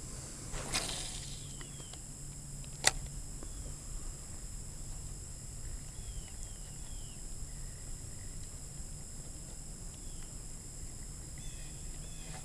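Quiet outdoor river ambience: a steady high-pitched drone with a few faint, short falling chirps. There is a soft swish about a second in and a single sharp click about three seconds in.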